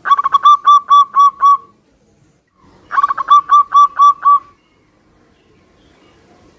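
Zebra dove (perkutut) singing two cooing phrases, each a quick run of about ten clear notes that start fast and slow slightly. The second phrase begins about three seconds after the first.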